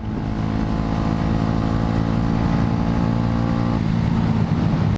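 Small motorcycle engine running at a steady cruising speed, over a constant hiss of wind and wet road. Just before the end, the higher engine tones drop away as the throttle eases.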